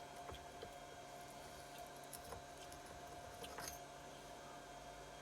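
A few faint metal clicks and clinks as the camshaft is eased out of a Keeway TX125 125cc single's cylinder head, the clearest about three and a half seconds in, over a faint steady hum.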